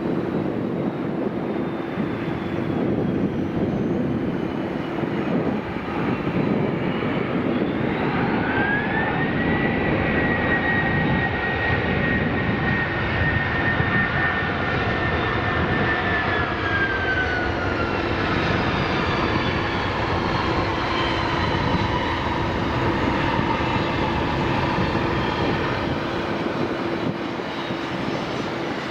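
Jet airliner coming in to land and passing by: steady engine noise with a high whine that rises in pitch under a third of the way in, holds, then glides down in pitch as the aircraft goes past.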